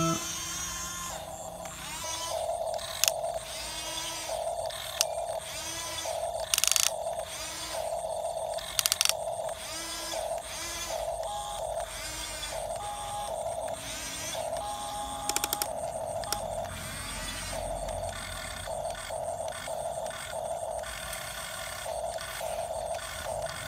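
Small electric motors and gearboxes of remote-controlled toy construction vehicles whining in short, irregular start-stop spurts, with occasional clicks.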